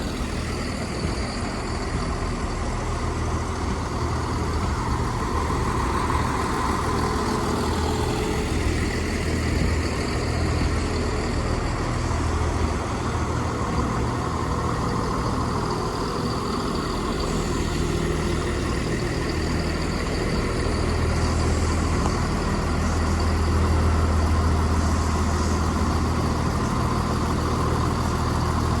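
Diesel engines of a Chiltern Railways Class 168 diesel multiple unit running steadily at a station platform: a continuous low hum that grows a little louder about three-quarters of the way through.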